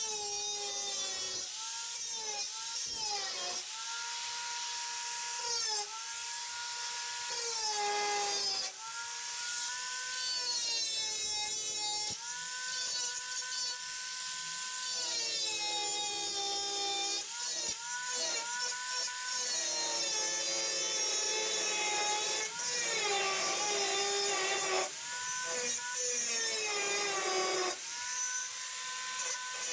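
High-speed electric power tool cutting sheet metal, its motor pitch sagging each time it bites in and climbing back when eased off, with a few brief pauses.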